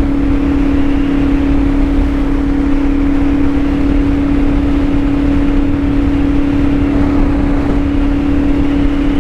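CFMOTO 450SS parallel-twin engine with an aftermarket slip-on exhaust, running at a steady speed while riding, its note holding one pitch, with wind noise rushing over the microphone.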